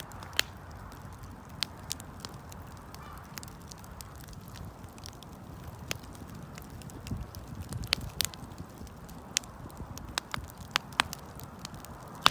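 Wood campfire crackling: about a dozen irregular sharp pops and snaps over a low steady rumble of the burning fire.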